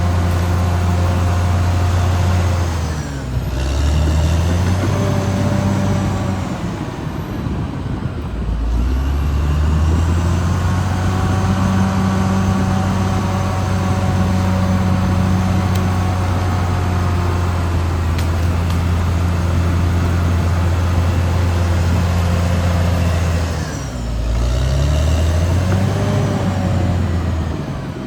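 Caterpillar D6R XL bulldozer's diesel engine running steadily. Its pitch dips a few seconds in, climbs back up, and dips and wavers again near the end.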